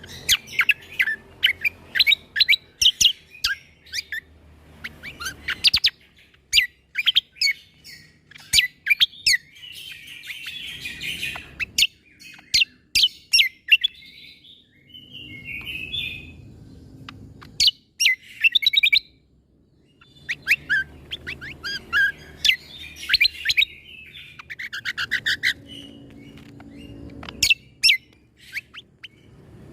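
Cucak kombo (kecial kombo) singing a bird-song training recording: rapid runs of sharp, high, clipped notes, the shot-like 'tembakan' phrasing, in bursts separated by short pauses.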